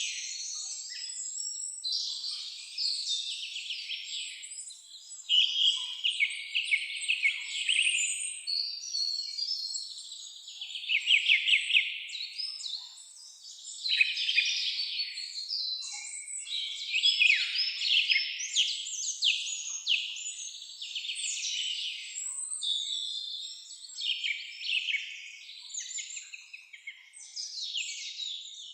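Songbirds singing in a continuous chorus of overlapping trills, chirps and quick rapid-fire phrases.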